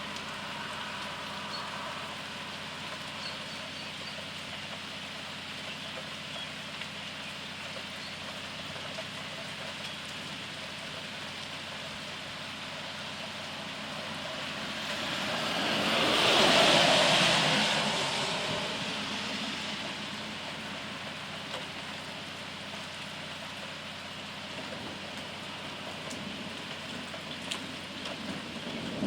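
Steady rain falling during a thunderstorm, a continuous hiss. About halfway through, a louder hiss swells up and fades away again over about four seconds.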